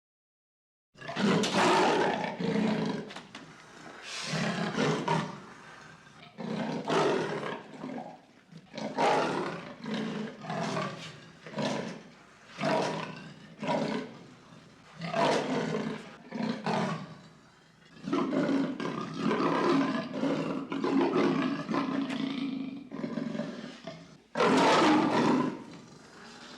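Lion roaring: a run of repeated calls one after another, starting about a second in, with a loud call near the end.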